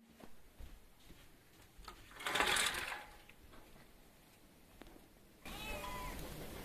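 Domestic cat meowing: a short, rough, loud call about two seconds in, then a higher meow with a bending pitch near the end.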